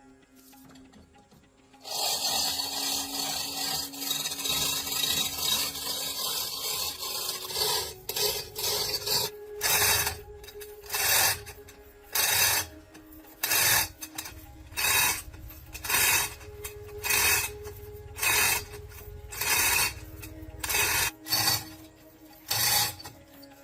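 Hand tool rasping over a workpiece: a few seconds of continuous rasping, then regular back-and-forth strokes about one a second. Soft background music underneath.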